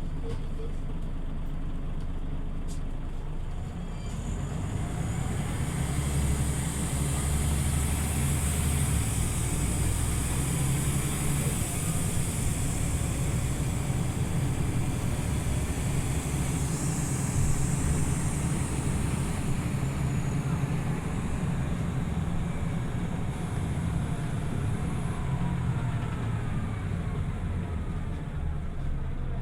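Scania OmniLink CL94UB city bus under way: its diesel engine and drivetrain run steadily over road noise. About four seconds in the bus gets louder as it picks up speed, and faint rising whines come and go later.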